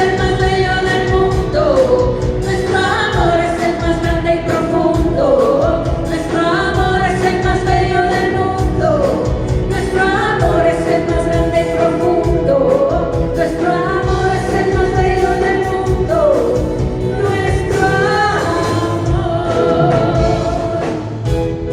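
Live band music with a lead melody carried in long phrases over a steady accompaniment.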